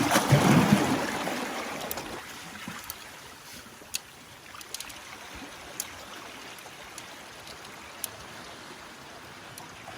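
Sea water surging over shoreline rocks in the first couple of seconds and draining away, then a steady wash of water with a few sharp clicks.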